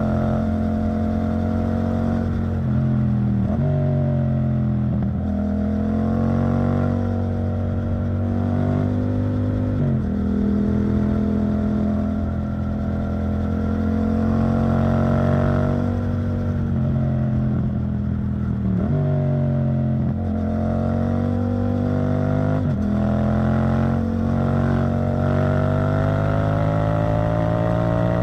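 Yamaha MT-07's 689 cc parallel-twin engine running through an Arrow Thunder titanium exhaust while being ridden. The engine note climbs gradually, then falls off abruptly at gear changes, several times over.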